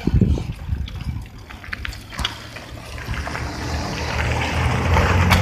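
Bicycle rolling over gravel, with scattered clicks and rattles, and a low steady hum building from about three seconds in.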